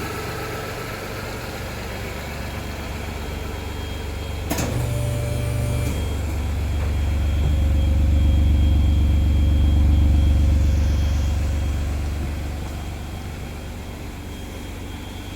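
Exhaust of a 2019 Ford Focus Mk4 1.5-litre turbo three-cylinder fitted with a low-volume aftermarket muffler and stainless tip: a steady low hum at idle that swells louder through the middle and settles back. A sharp click comes about four and a half seconds in.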